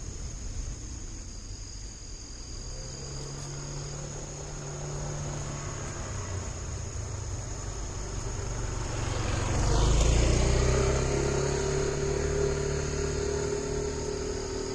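Motor vehicle engine running with a steady low hum. About ten seconds in, a louder vehicle passes close with a falling pitch, and its engine note lingers afterward.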